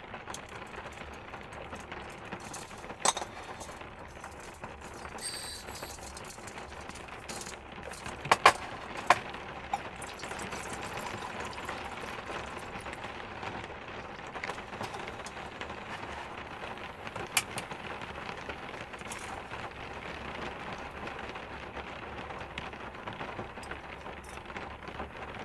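Steady rain on the minivan's roof, heard from inside the van, with four sharp clinks of metal cookware being handled.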